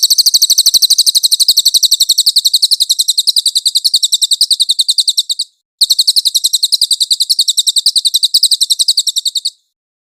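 Cililin bird song: a rapid, high-pitched trill of about ten notes a second. It runs in two bouts of roughly four to five seconds with a short break between them, and stops about a second before the end.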